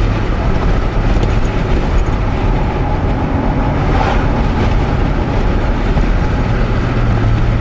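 Steady road and engine noise inside a moving vehicle's cabin, a continuous low drone with a brief swell of noise about four seconds in.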